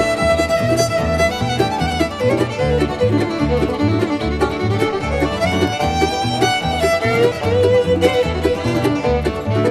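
Bluegrass band playing an instrumental passage with the fiddle to the fore, over a steady bass line.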